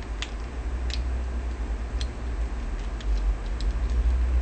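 A handful of small, irregular clicks from handling a mobile phone and clipping test leads onto its battery terminals, over a steady low hum.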